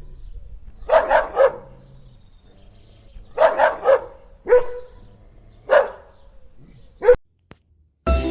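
A dog barking in short groups: three quick barks about a second in, three more a few seconds later, then single barks, the last one clipped short before the sound cuts out.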